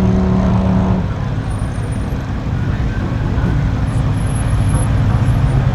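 Car engines rumbling as cars drive off. A steady held engine note is heard for about the first second, then breaks off, leaving a dense low rumble that swells slightly near the end.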